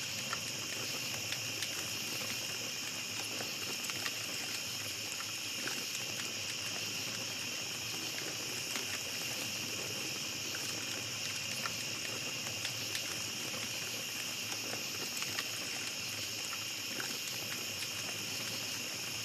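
A small campfire crackling, with frequent small pops and snaps, over a steady high-pitched chorus of night insects.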